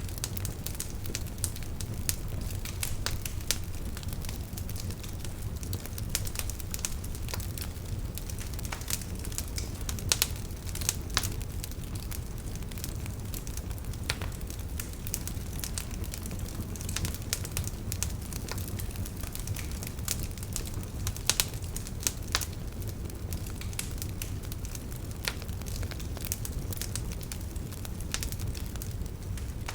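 Wood fire crackling, with many irregular sharp pops and snaps over a steady low rumble of burning.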